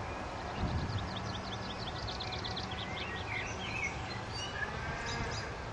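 Small birds singing in a garden: one gives a fast, even run of high chirps for about two and a half seconds, followed by scattered single chirps, over a steady low outdoor rumble.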